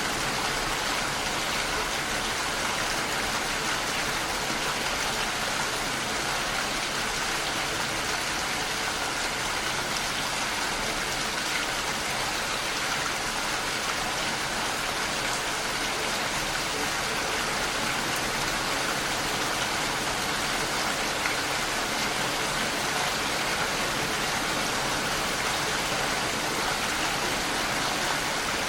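Steady heavy rain, an even hiss of falling water with no breaks or thunder.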